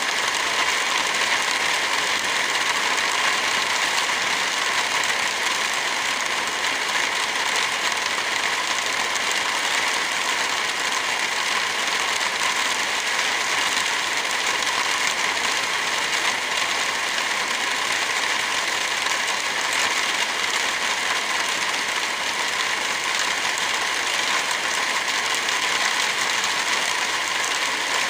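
Heavy rain falling steadily: an even, unbroken hiss that keeps the same level throughout.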